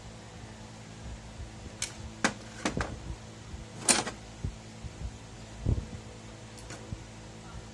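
A few sharp clicks and light knocks of small hard objects being handled, over a steady electrical hum.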